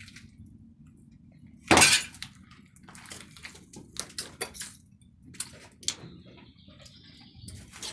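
A single loud crash about two seconds in, like something breaking or being knocked over, followed by scattered small knocks and clicks of debris.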